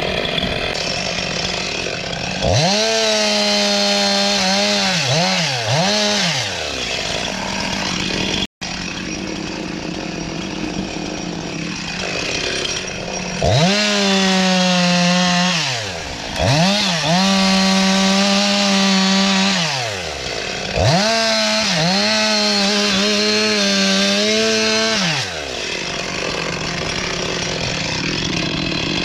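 Chainsaw cutting firewood: the engine revs up to full throttle four times, its pitch sagging and wavering as the chain bites into the wood, and drops back to idle between cuts.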